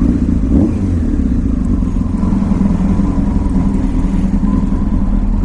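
Honda CBR600F4's inline-four engine running steadily with an even low rumble, freshly started.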